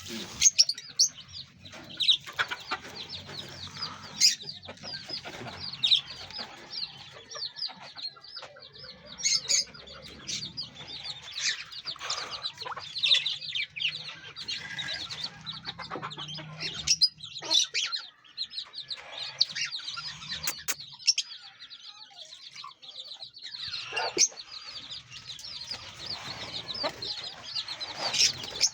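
Chickens clucking among a constant chatter of many rapid, high-pitched chirps from small birds.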